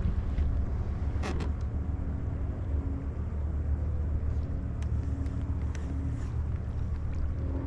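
A kayak moving across the water: a steady low rumble with a faint hum, and a couple of light knocks about a second in.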